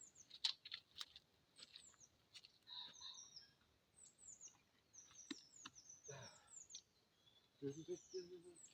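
Faint birdsong: small birds chirping over and over with short, high, downward-sliding notes, with a few faint clicks.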